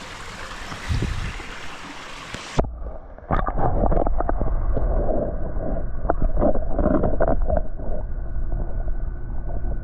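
Running pond water heard in open air, then about two and a half seconds in the microphone goes under the surface: the sound suddenly turns muffled, leaving low underwater sloshing and knocks.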